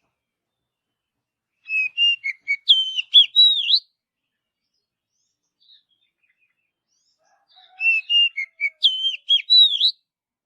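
Oriental magpie-robin (kacer) singing two short, near-identical phrases of clear whistled notes, about six seconds apart.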